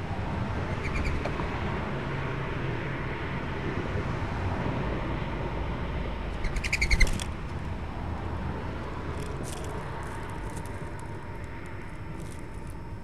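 Small wild birds chirping faintly over a steady low rumble, with a brief, louder rapid fluttering burst about seven seconds in.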